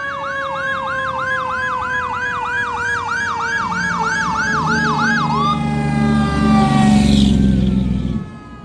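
Fire engine responding with its electronic siren on a fast yelp, about two and a half sweeps a second, over a siren tone sliding slowly down, then air horn blasts as the truck passes, loudest about seven seconds in. The sound drops off sharply just after eight seconds as it goes by.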